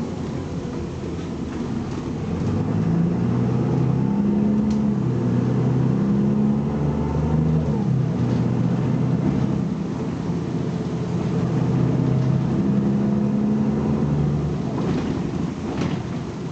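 BMC Belde 220-SLF city bus's diesel engine accelerating: the engine note rises and cuts off abruptly about eight seconds in, as at a gear change, then climbs again before easing off near the end.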